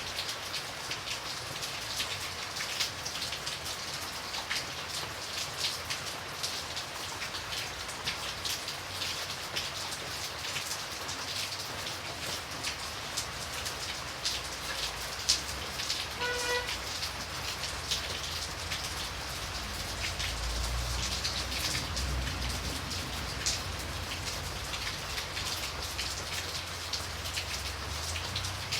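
Steady rain falling, with a dense hiss full of separate drop strikes. A brief pitched note sounds about halfway through, and a low rumble builds in the second half.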